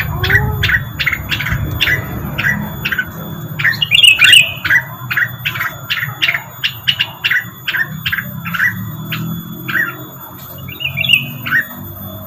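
Rengganis bird call used as a lure: a rapid series of short, sharply falling chirps, about three a second, broken by a brief warbled phrase about four seconds in and another near the end.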